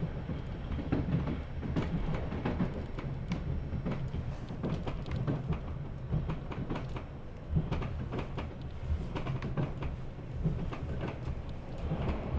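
Inside a PKP type 120A 'bonanza' passenger coach under way: a steady low rumble of the running gear with frequent, irregular clicks and knocks of the wheels over the rail joints.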